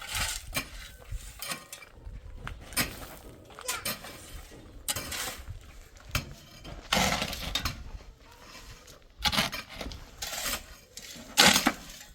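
Irregular clinks, knocks and scrapes of metal hand tools working cement mortar and stone, with a few longer scraping passes later on.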